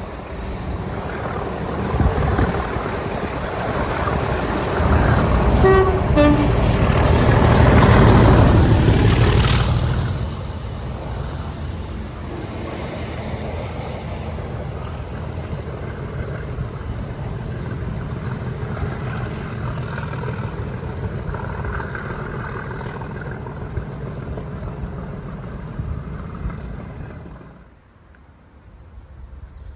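Train passing at speed, with a brief horn toot as it approaches. The noise swells to its loudest about eight seconds in, then the carriages keep rumbling by until the sound cuts off suddenly near the end.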